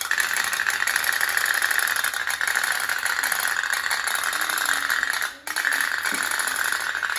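Tin pop-pop boat (kapal otok-otok) running: a fast, steady rattle of rapid pops that drops out briefly about five seconds in.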